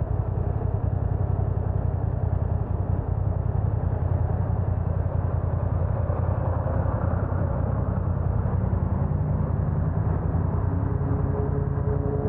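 Motorcycle engine, a BMW F900R parallel twin, running steadily with a fast, even low pulse.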